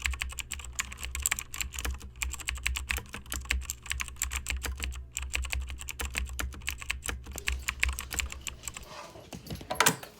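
Dense, irregular clicking, many small clicks a second, over a low hum that stops about nine seconds in, with one sharper click near the end.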